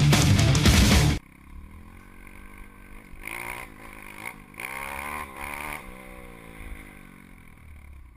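Heavy rock music cuts off about a second in, then a small pit bike engine is heard revving, its pitch climbing and dropping in two surges before easing back down.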